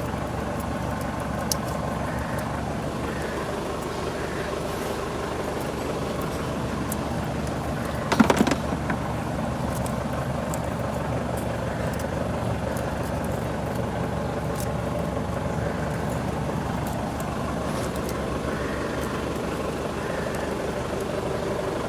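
Toyota GLi car engine idling steadily, with one sharp metallic clank about eight seconds in.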